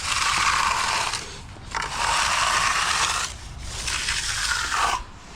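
Finishing tool scraping across fresh concrete in three long strokes, each lasting about a second or more with short pauses between them.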